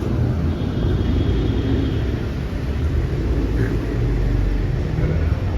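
Steady low rumble of a car running, with no clear rise or fall in level.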